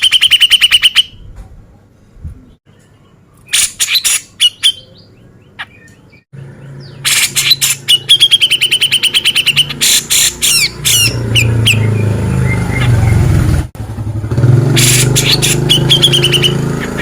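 Grey-cheeked bulbul (cucak jenggot) singing loudly in bursts of rapid, harsh chattering notes and trills, with pauses between the bursts. A low steady hum lies underneath through the second half.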